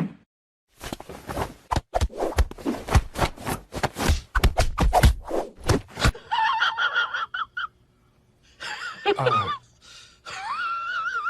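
Scuffling with rapid knocks and rustles, then a cat yowling: a short cry, one that slides down in pitch, and a long wavering yowl near the end.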